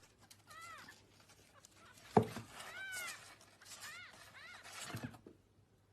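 A kitten mewing several short, high calls, each rising then falling in pitch, with a single sharp knock about two seconds in.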